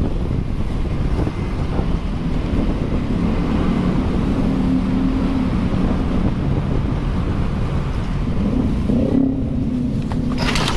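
Motorcycle engine running steadily under heavy wind rumble, as on a moving bike. About nine seconds in, the wind noise drops away and the engine note shifts.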